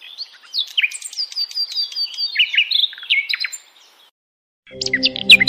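Pet parrot giving a run of short, quick chirping calls that rise and fall in pitch, stopping about three and a half seconds in. After a brief silence, music comes in near the end with fast, evenly repeated chirps over it.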